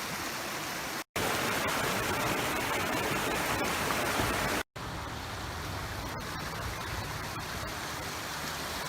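Fast-flowing creek water rushing steadily. The sound cuts out for an instant twice, about a second in and again just before five seconds, and is louder and brighter between the two breaks.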